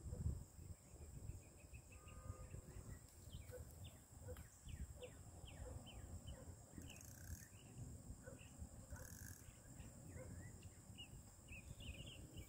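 Quiet outdoor ambience: a bird calling in a long series of short, falling chirps, about two a second, over a steady high insect drone and a low rumble.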